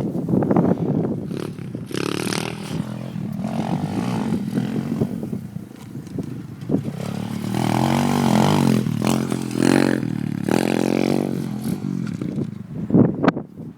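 Pit bike engine revving up and down repeatedly, with clattering and scraping noises mixed in and a sharp click near the end.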